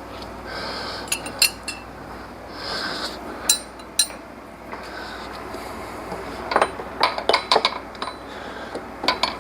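Steel wrenches and a tensioner bar clinking against each other and the engine's belt tensioner as they are fitted together and worked to push the tensioner over: scattered sharp metallic clinks, then a quick run of them about seven seconds in.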